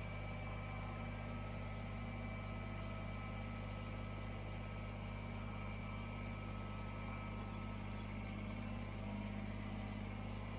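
Steady low machine hum with a few faint high tones held throughout, with no distinct knocks or changes.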